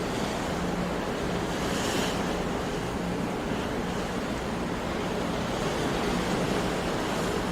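Sea waves washing on a shore: a steady wash of surf noise with no separate breaks standing out, a little brighter about two seconds in.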